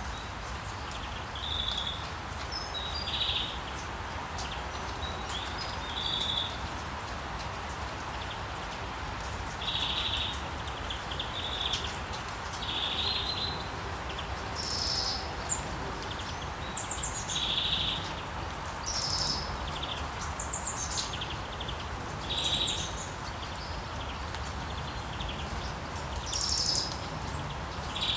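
Rainforest ambience: short bird chirps and quick trills every second or two over a steady hiss.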